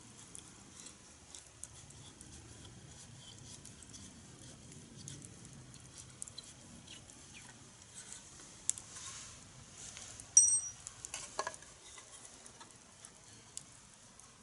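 Wood campfire burning on a fire stand, crackling with scattered small pops and a faint hiss. About ten seconds in comes a louder sharp crack with a brief high whistle.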